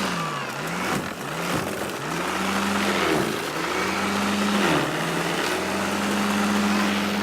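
Greenworks electric snow shovel running, its motor hum dipping briefly in pitch several times as it takes on snow, over a steady hiss.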